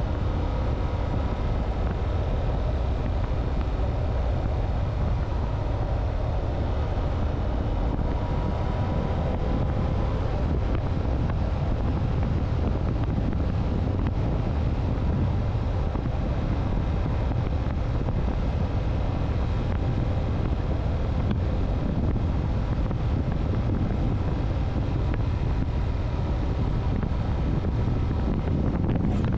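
Motorcycle on the move, its engine running steadily under a heavy rush of wind on the microphone.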